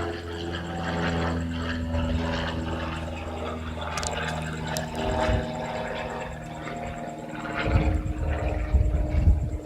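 Cessna light aircraft's piston engine and propeller droning steadily as the plane flies past, fading after about five seconds. Near the end, an irregular low rumble.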